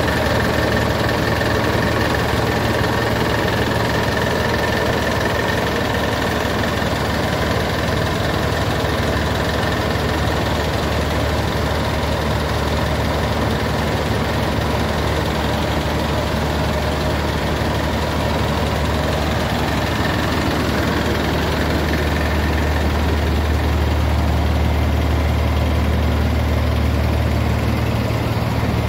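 Scania 111S truck's six-cylinder turbo-diesel engine running steadily with a deep rumble, growing a little louder near the end.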